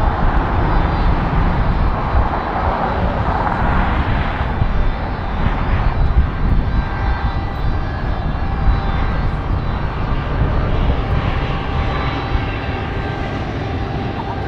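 Jet airliner engines, a loud steady rush with deep rumble and faint whining tones, slowly getting quieter near the end.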